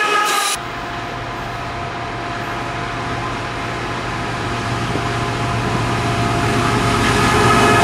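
Canadian National intermodal train approaching behind GE ET44AC diesel locomotives: a steady low engine drone and rumble that grows gradually louder. A brief louder burst of a train passing close by cuts off abruptly about half a second in.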